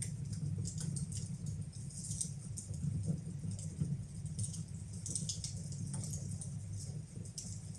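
Wood fire burning in a fireplace: irregular crackles and pops, several a second, over a steady low rumble.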